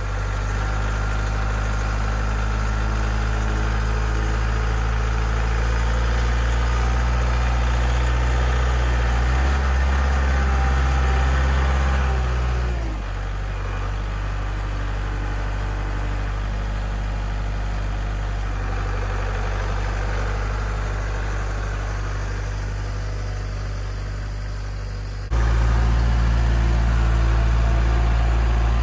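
Diesel engine of a Kubota compact tractor with a front loader, running steadily with a low, even hum. The engine sound drops a little about halfway through and turns abruptly louder near the end.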